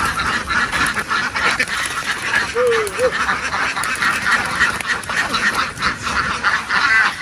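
A large flock of domestic ducks quacking all at once in a dense, unbroken chorus.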